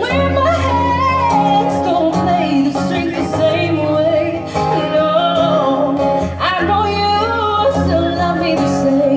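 A singer with acoustic guitar accompaniment, the voice holding long notes that bend up and down in pitch over steady guitar chords.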